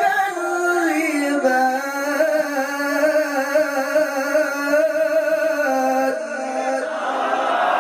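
A man's melodic Qur'an recitation (tilawah), one long ornamented note drawn out with a wavering pitch. Near the end an audience breaks into loud shouting.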